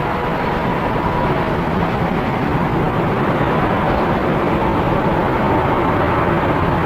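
Aircraft engine noise: a steady rushing drone with faint whining tones, growing slowly louder.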